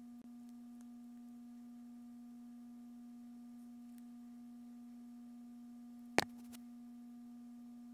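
Steady electrical hum on a single low pitch with a faint higher overtone, unchanging throughout, with one sharp click about six seconds in.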